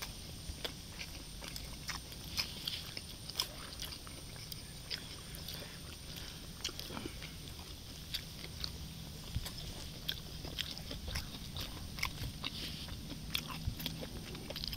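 Two people chewing pork sisig, eaten by hand: irregular small crunches and wet mouth clicks, a few every second.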